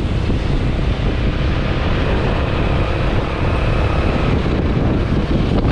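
Steady, loud wind rumble on the microphone aboard a moving boat, with the boat's running noise underneath.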